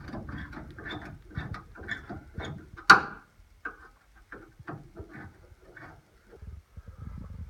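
A hand screwdriver driving the screw that holds the truck's taillight in place: a run of small clicks and ticks, about two or three a second, with one sharp louder click about three seconds in, then sparser ticks.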